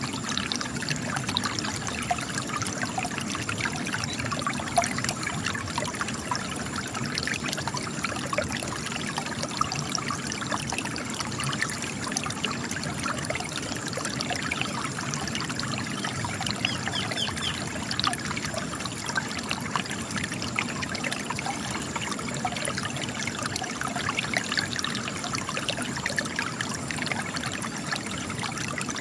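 Spring water trickling and splashing steadily as it gushes from cracks in rocks.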